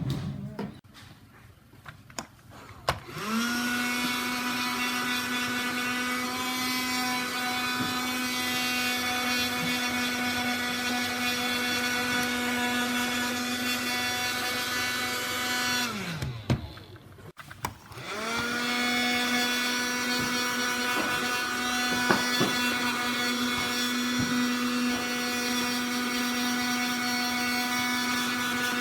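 Small desktop vacuum cleaner switched on about three seconds in, its motor running with a steady whine. It is switched off and winds down, falling in pitch, around sixteen seconds in. It starts again a couple of seconds later and winds down once more near the end. A few handling clicks come before the first start.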